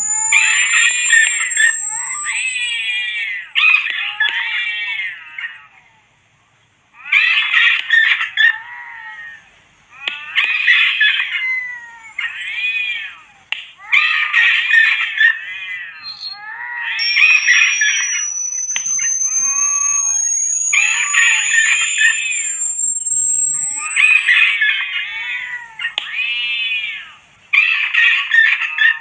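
Rodent-repellent sound mix: repeated bursts of animal screeching, rat screams mixed with cat yowls, over a thin high-pitched electronic tone that slowly rises in pitch, drops back a little past halfway and rises again.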